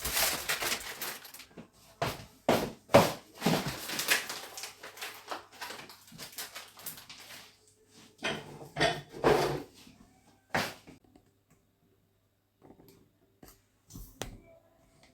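Packets and containers being moved around on a kitchen shelf: a run of rustling and knocks over the first ten seconds, one sharper knock, then a few faint clicks.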